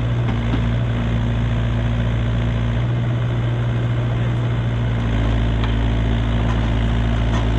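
A heavy machine's diesel engine idling steadily, a constant low hum.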